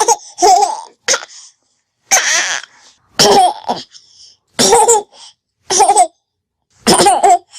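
High-pitched laughter in short separate bursts, about eight of them roughly a second apart, each a quick breathy giggle.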